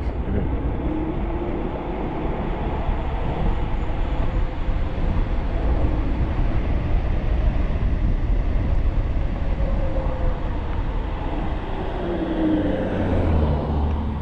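Wind rushing over the microphone of a fast-moving e-bike, a steady heavy rumble. A faint whine rises and falls in pitch within it and slides down near the end.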